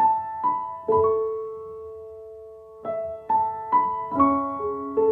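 Background piano music, a slow phrase of single notes that ring out, with a long held note in the middle before the melody resumes.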